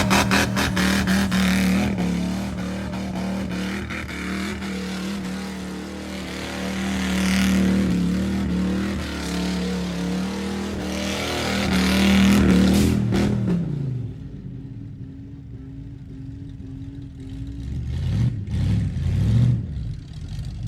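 Ford mud truck engine running hard with a steady drone, swelling in revs twice. About thirteen seconds in the revs fall away to a quieter, lower drone, with a few short blips of throttle near the end.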